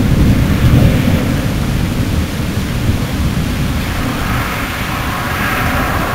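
Fireworks shots echoing as a continuous low rolling rumble, like thunder, easing slightly toward the end, with a hiss rising over it about four seconds in.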